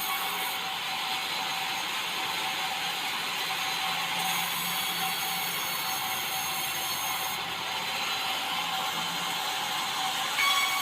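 Swing-blade sawmill's circular blade cutting through white meranti wood: a steady, continuous sawing noise with a faint whining tone that gets briefly louder near the end.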